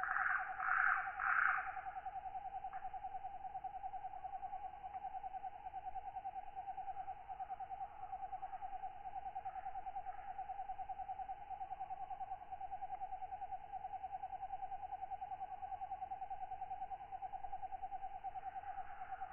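Night insect chorus with katydids: a steady, fast-pulsing trill throughout. Louder pulsed calls stand out over it for the first second and a half and again near the end.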